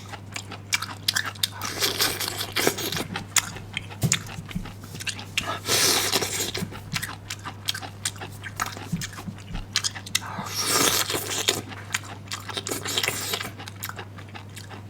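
A person biting and chewing crunchy bamboo shoots close to the microphone: irregular crisp crunches and clicks throughout, over a low steady hum.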